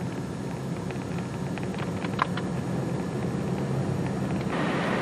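Steady low hum of a running vehicle, with a few faint ticks; about four and a half seconds in a louder hiss of wind or road noise sets in.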